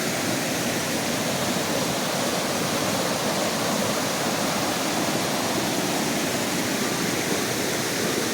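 A rain-swollen mountain creek rushing steadily, a constant full rush of water with no break.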